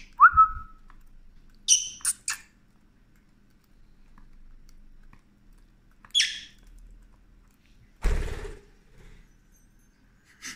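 Short, sharp chirps and squeaks from a pet lovebird and budgie, a few seconds apart, one of them a quick rising squeak at the start. A brief rustling thump comes about eight seconds in.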